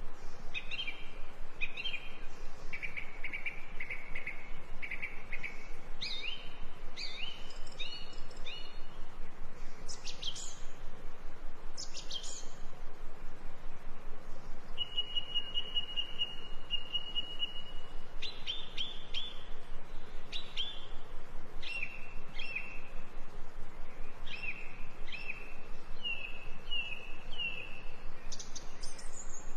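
Small birds chirping and calling repeatedly: short high notes and quick sharp calls, with one steady whistled note held for about three seconds midway.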